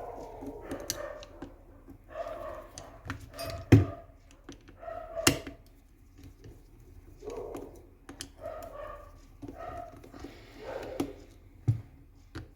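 Sharp knocks and clicks of parts being handled while an airsoft M14 is taken apart, the two loudest close together a little before the middle, over short, repeated background sounds.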